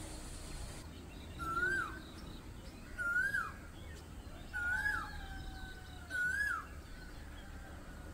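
A bird calling four times, a short note that rises and then drops, repeated about every second and a half.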